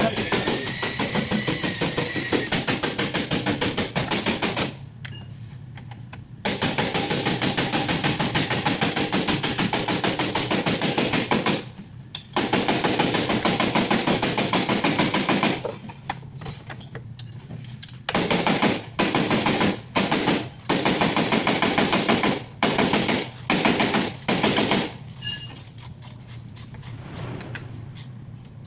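Rapid mechanical rattling, a fast string of sharp knocks, in long runs of several seconds, then in short bursts that start and stop every second or so near the end.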